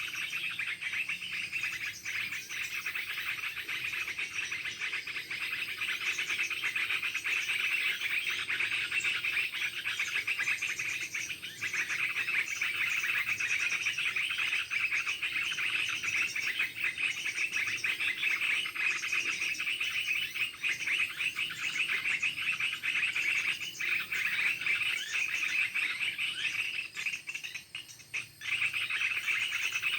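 Dense, continuous chirping and trilling of birds and insects, a steady high-pitched chorus that dips briefly near the end.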